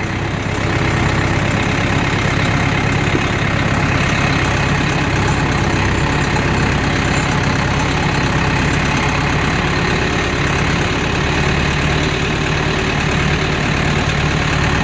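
Tractor engine running steadily at low speed with a constant drone, heard from the driver's seat as the tractor drives slowly along a rough bush trail.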